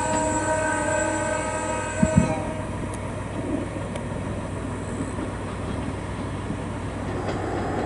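KiHa 47 diesel railcars of a tourist train sounding a steady horn, which stops about two and a half seconds in. Two heavy clunks come just before the horn ends, then the train runs on with a steady rumble that grows a little louder near the end.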